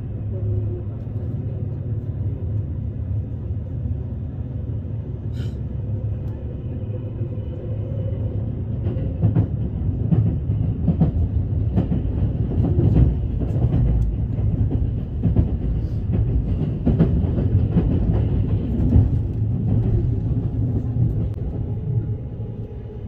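Train running on the rails: a steady low rumble, joined from about nine seconds in by many irregular clicks and knocks from the wheels and carriage.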